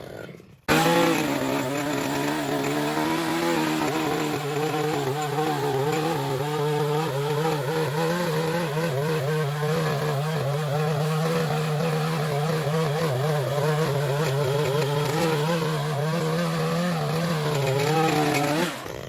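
Small gasoline engine of lawn equipment running steadily, its pitch wavering slightly as the load changes. It starts suddenly just under a second in and cuts off at the end.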